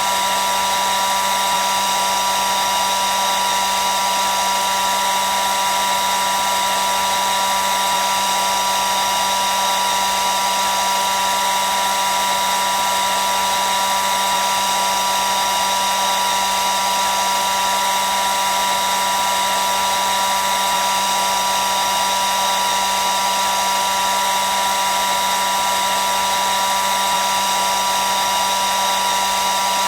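Hair dryer running continuously: a steady rushing of air with a constant high whine from its motor and fan, unchanging throughout.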